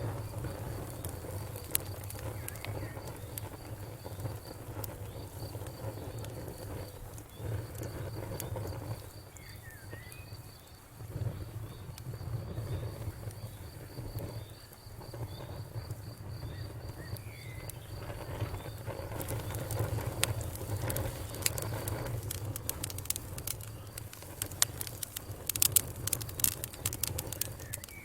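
Wood fire crackling, with a low steady rumble and scattered sharp pops and snaps that come thicker near the end. An insect keeps up a fast, high pulsing chirp through most of it, dropping out late on.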